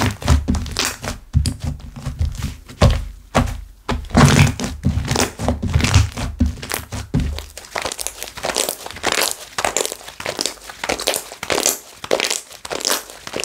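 Slime being squished, pressed and stretched by hand, with many small air bubbles popping and crackling. For the first seven seconds or so, heavy thuds of the slime being pressed down come under the crackling; after that only fine crackling remains.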